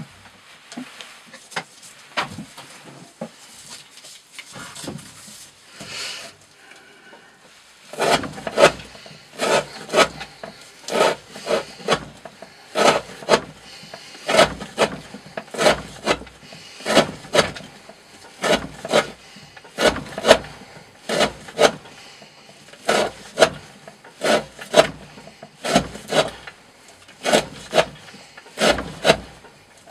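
A D2-steel knife blade slicing repeatedly through thick 20 mm rope in an edge-retention test, each cut a short rasping stroke. After a few seconds of quieter handling noises, the cuts come steadily, about three every two seconds.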